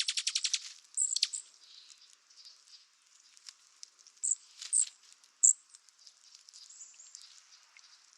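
Douglas squirrel chattering: a rapid rattling trill right at the start, then a falling call about a second in and a few short high chirps around the middle.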